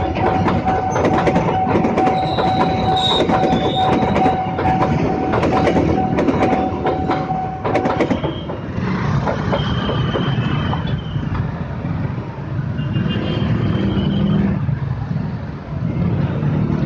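Train passing close by, its wheels clacking rapidly over rail joints with a steady high tone running alongside; both stop about eight seconds in. A steady lower rumble continues after that.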